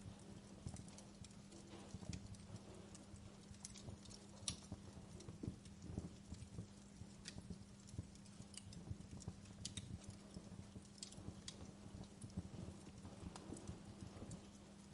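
Wood fire crackling, with irregular small pops and snaps over a faint steady low hum.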